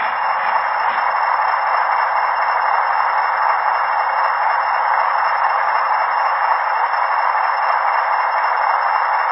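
Sound-fitted model locomotives running round a model railway layout, a steady hiss-like noise through small onboard speakers, with a faint low hum that stops about six seconds in.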